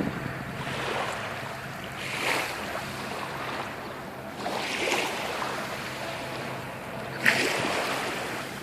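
Sea waves washing in, swelling about every two and a half seconds, with wind on the microphone.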